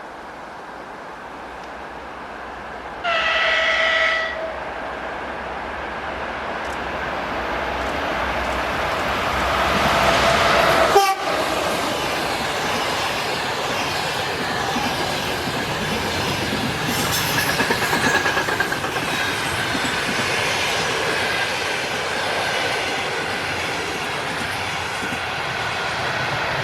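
EP2K electric locomotive with a passenger train: a short horn blast about three seconds in, then the train grows louder as it approaches, the locomotive passes at about eleven seconds with a sharp bang, and the coaches follow with steady wheel noise and clickety-clack over the rail joints.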